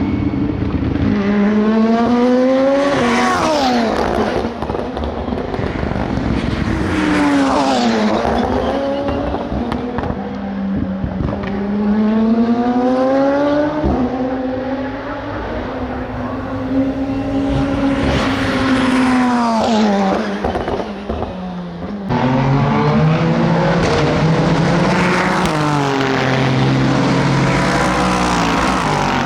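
SUPER GT racing cars' engines at full throttle, passing one after another. Each engine note climbs as the car accelerates, then drops in pitch as it goes by.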